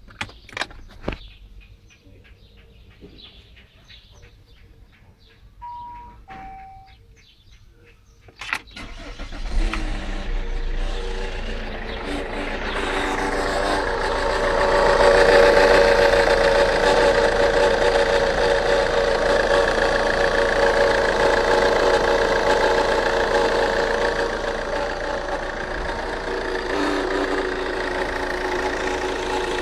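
Saab 9-3 engine: a few clicks and two short descending beeps, then the engine starts about nine seconds in and runs steadily, growing louder for several seconds before settling. The running engine makes a noise the owner calls strange and cannot identify.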